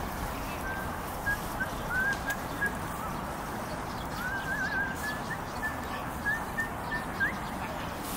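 A bird chirping in short whistled notes, with a longer warbling run about four seconds in, over steady outdoor background noise.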